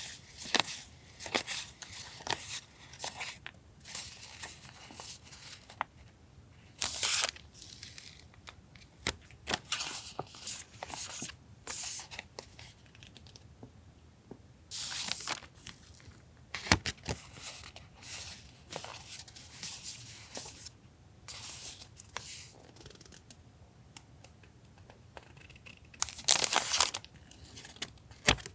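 Paper rustling and crinkling in irregular bursts with short pauses as sheets of tracing paper and sticker sheets are picked up, turned and handled, with a louder crisp rustle about seven seconds in and again near the end.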